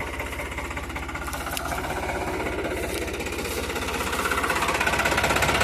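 New Holland 3600-2 tractor's three-cylinder diesel engine running steadily under load, pulling a reversible plough; it grows a little louder toward the end.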